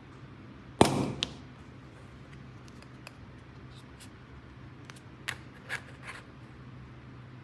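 Hard plastic toy pieces being handled: a loud click about a second in with a brief rustle after it, a second click just after, then a few light taps and three more clicks near the end, over a faint steady hum.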